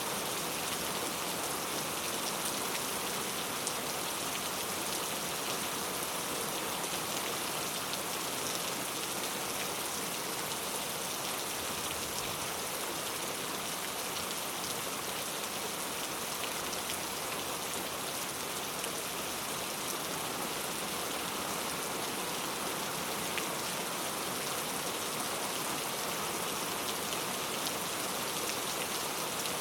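Steady rainfall: a dense, even hiss of rain with fine drops ticking on surfaces.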